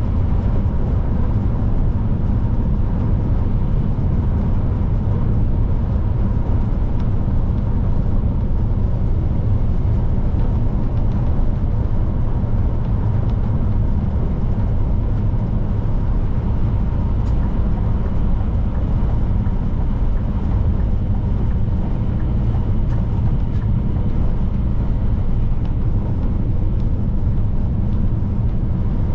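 Scania P310 truck driving at a steady speed: a loud, even, low engine drone mixed with tyre and road noise, without gear changes or braking.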